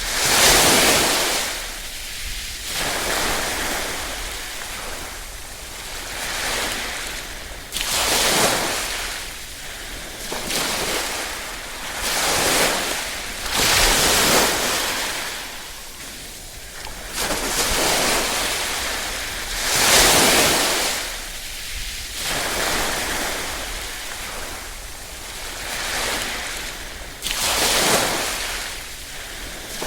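Small waves lapping on a shore, each gentle surge swelling and washing back every few seconds, with a low rumble of wind on the microphone underneath.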